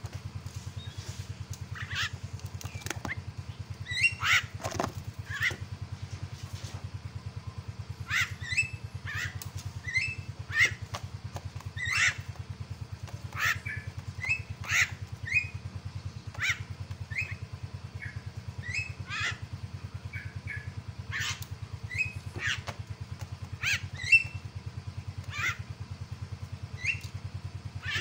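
Javan myna (jalak kebo) giving short, sharp calls in quick succession, about one a second, some much louder than others. These are the agitated calls used to provoke rival mynas into answering. A steady low hum runs underneath.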